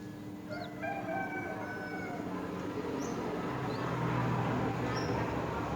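A rooster crows once, a long call starting about a second in, while small birds give a few short high chirps. A low rumble builds in the second half.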